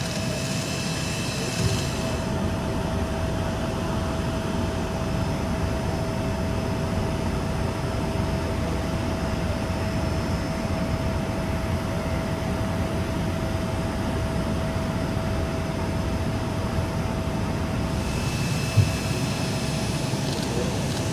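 Jet aircraft engines running steadily: a low rumble with a constant whine over it, and a single brief thump about three-quarters of the way through.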